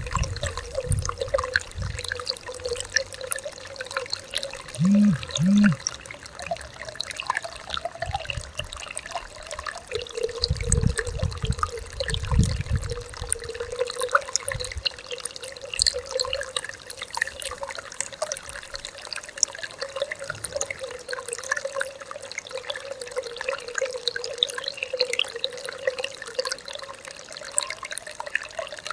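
A stream flowing and trickling steadily, with a constant gurgle. A low rumble comes and goes around ten to thirteen seconds in, and two short low tones sound about five seconds in.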